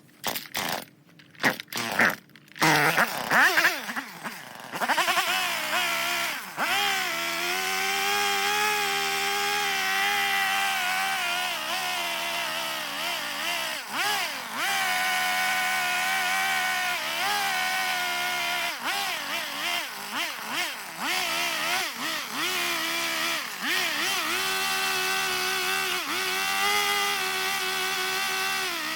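Gas chainsaw carving a block of eastern red cedar. After a few short bursts, it runs steadily from about three seconds in at a fairly constant high speed, dipping briefly every few seconds as the throttle is eased.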